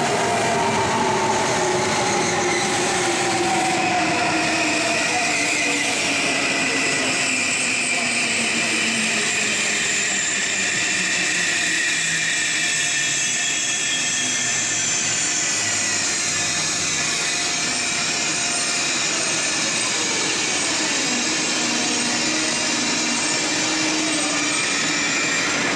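German ICE 3 high-speed electric train pulling into a station platform and slowing to a stop, with a rush of wheel and air noise and several whining tones from its electric drive gliding down in pitch as it brakes.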